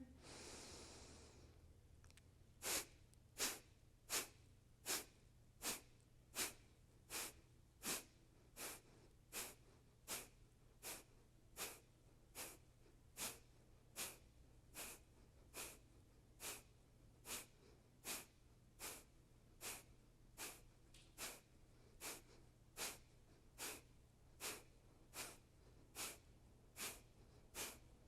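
Kapalabhati (skull shining breath) pranayama: a long inhalation through the nose, then a steady run of short, forceful nasal exhalations, about four every three seconds, each a sharp puff of air driven out by the abdominal muscles.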